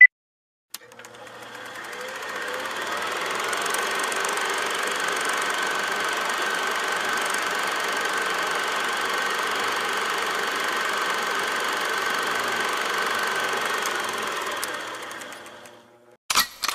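A steady mechanical running sound with a high whine that fades in over the first couple of seconds, holds, and fades out near the end, then a short click.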